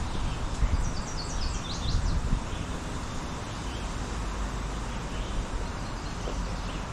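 Wind blowing through trees, a steady rustling hiss of leaves, with low rumbles of wind on the microphone in the first couple of seconds. About a second in, a songbird sings a quick run of high notes.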